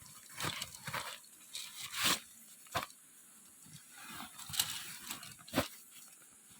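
A handful of sharp, irregular knocks and clicks, about six over several seconds, with soft rustling between them.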